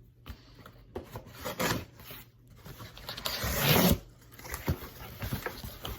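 Packaging being handled and opened: rubbing and scraping of cardboard, with a louder scraping rush lasting under a second about three seconds in.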